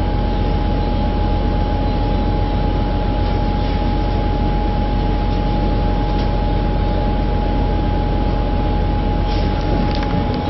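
Riding inside a city bus: a steady, loud engine and road rumble with a constant whine above it, unchanging while the bus is under way.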